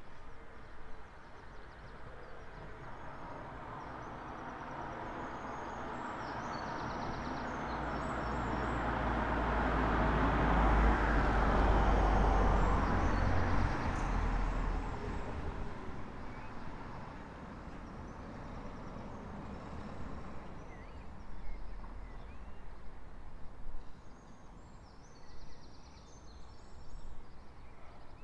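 A single car passes along the street: its engine and tyre noise swells for several seconds, is loudest about halfway through, then fades away. Faint birdsong can be heard near the start and again near the end.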